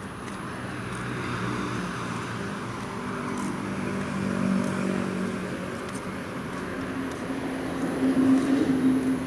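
A motor vehicle's engine running with a low hum that grows louder, peaking just before the end as it comes close.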